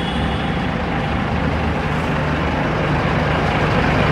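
Mercedes-Benz 1317 tipper's turbocharged straight-six diesel engine idling steadily with a low, even hum.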